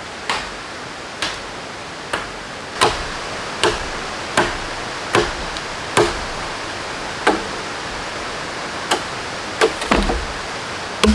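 A khukuri chopping bamboo: a series of sharp, evenly paced strikes, roughly one a second, coming quicker near the end, over a steady hiss of running water or rain.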